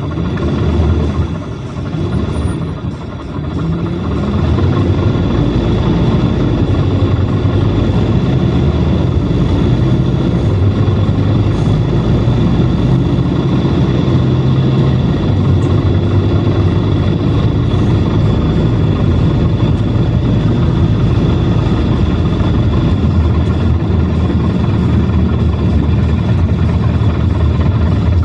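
Engine and running noise of a PAZ-422320-04 Citymax 9 city bus, heard inside the passenger cabin. In the first few seconds the engine note rises as the bus picks up speed, then it runs loud and steady.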